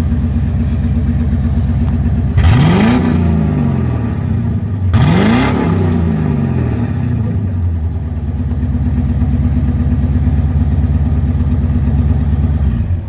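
1985 Corvette's 5.7-litre V8 running without mufflers: loud idle, revved twice in quick blips about two and a half and five seconds in, each rising sharply and dropping back to idle. The engine sound cuts off suddenly near the end.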